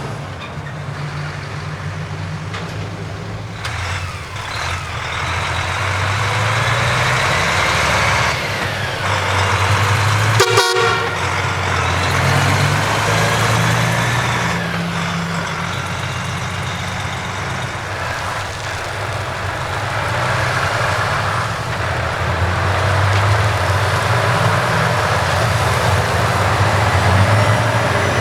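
Heavy trucks driving past with diesel engines running, pitch shifting as they pull through, and horns tooting. A single sharp crack about ten and a half seconds in.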